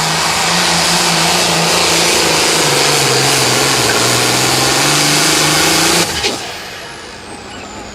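Limited pro stock pulling tractor's diesel engine running flat out under load, its note sagging midway as the sled bears down, then cut off suddenly about six seconds in; a high whine falls away after the shutdown.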